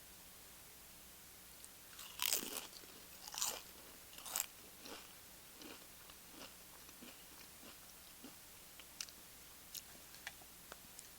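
Close-miked crunchy bites into tortilla chips: three loud crunches about a second apart starting about two seconds in, followed by chewing that fades away, with a few small clicks near the end.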